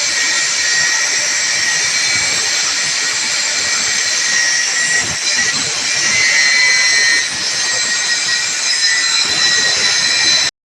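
Electric motor running with a steady high whir and hiss, which cuts off abruptly near the end.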